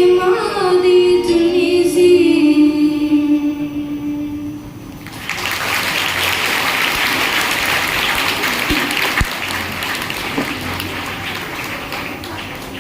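The end of a Punjabi song about a mother: the sung voice holds a long final note that fades out about five seconds in. Then an audience applauds, and the clapping dies down toward the end.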